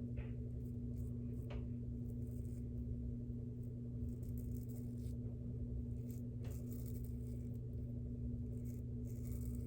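Steady low hum of a laundry machine running, with a few faint, brief scrapes.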